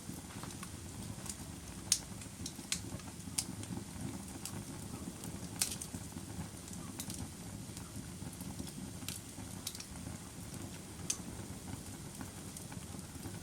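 Campfire burning: a steady low rush of flames with sharp crackles and pops at irregular intervals.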